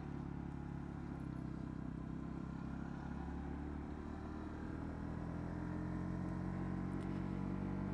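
Honda CB125R's single-cylinder four-stroke engine running steadily under way, its revs climbing slowly through the second half.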